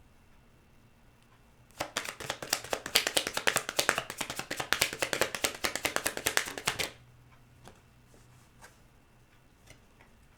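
A deck of tarot cards being shuffled: a dense run of rapid card clicks lasting about five seconds, starting about two seconds in and stopping abruptly.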